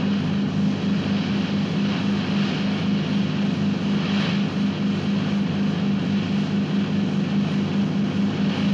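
Speedboat engine running steadily under way, a constant low drone with light water and wind hiss.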